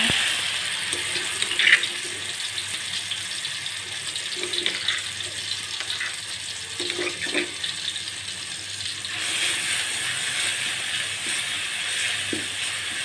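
Blended chili spice paste sizzling in hot oil in a metal wok. The sizzle starts suddenly as the paste goes in. A few clicks and scrapes of a metal spatula against the wok come through it, and the sizzle grows louder about nine seconds in.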